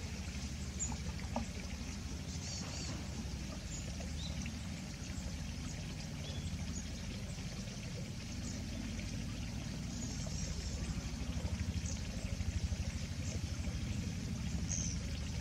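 A few faint, thin high-pitched calls from Japanese white-eyes, brief single notes scattered through, over a louder steady low rumble.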